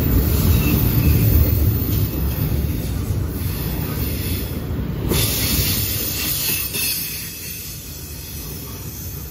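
CSX double-stack container train's well cars rolling past on the rails, a steady wheel rumble with a high hiss above it, growing gradually quieter.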